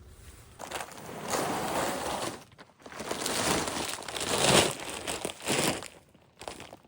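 Dry straw being handled and shifted, rustling and crunching in three long bursts.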